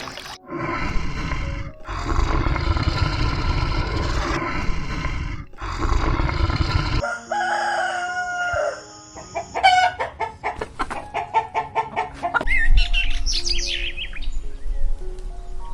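Chickens calling: long crowing-type calls first, then a quick run of clucks and high chirping, with soft background music notes underneath in the second half.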